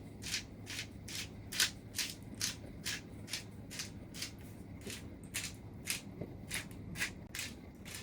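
Italian herb seasoning being shaken from a shaker over a pizza: a faint, quick run of light rattling shakes, about two to three a second.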